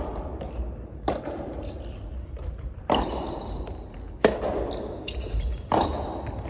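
A soft tennis rally: the soft rubber ball struck by rackets and bouncing on the court, four sharp hits about a second and a half apart, with short high squeaks between them.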